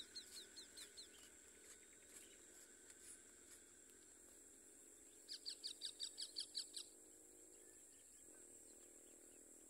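Faint bird calls over near silence: a quick run of short, shrill, downward chirps at the start, and again for about a second and a half midway.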